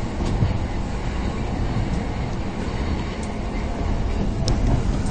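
Subway train running toward the next station, heard from inside the car: a steady low rumble of wheels on rails, with one sharp click about four and a half seconds in.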